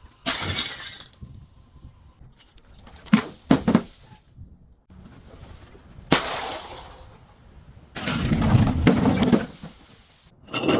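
Glass bottle breaking and being crushed: a short crunch near the start, a few sharp cracks about three and a half seconds in, a sharp shatter around six seconds in that trails off, then a longer grinding crunch of glass from about eight to nine and a half seconds.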